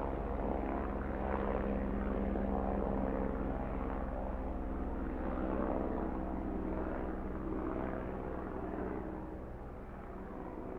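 Helicopter running steadily, its engine and rotor making a constant low drone that eases a little near the end and then cuts off abruptly.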